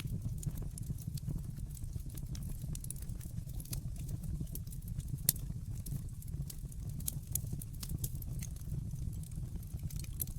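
Wood fire crackling in a fireplace: a steady low rumble of flames with scattered sharp pops and snaps, one louder pop about five seconds in.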